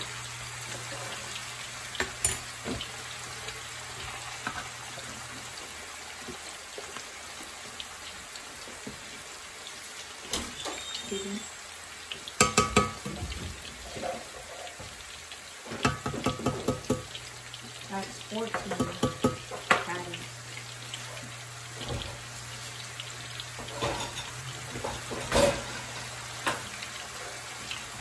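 Tilapia cakes frying in hot oil in a pan, a steady sizzle. A spatula clinks and scrapes against the pan in clusters, most of all around the middle and again near the end.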